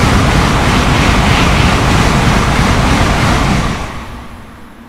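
Tokaido Shinkansen train passing at high speed without stopping: a loud, steady noise that falls away about four seconds in as the train clears.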